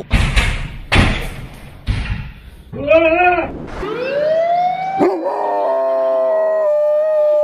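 A dog's voice: a few short noisy sounds, a wavering call, then a rising howl held long and steady from about five seconds in.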